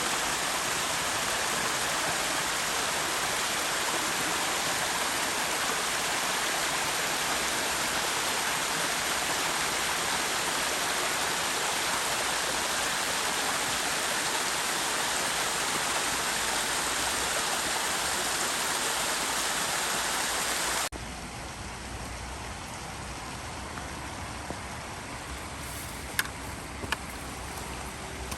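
Steady rushing water of a stream or waterfall, a dense even hiss. About two-thirds of the way through it cuts off abruptly to a quieter low rumble with a couple of faint clicks.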